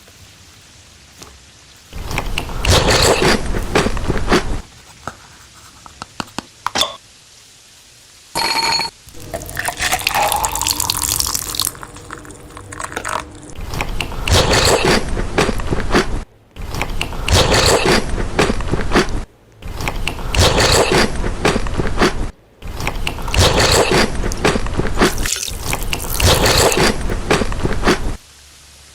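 Close-miked mukbang eating and drinking sounds in a series of loud noisy bursts a few seconds long with short pauses between, with liquid pouring into a cup, rising in pitch, about ten seconds in.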